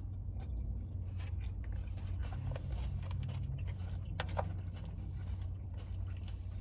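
Quiet eating sounds: scattered soft mouth clicks and chewing over a steady low hum, with a slightly sharper pair of clicks about four seconds in.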